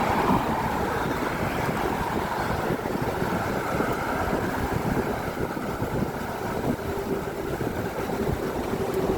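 Steady road traffic noise of cars crossing a bridge: a continuous rush of tyres and engines with no single vehicle standing out. A faint steady hum joins about seven seconds in.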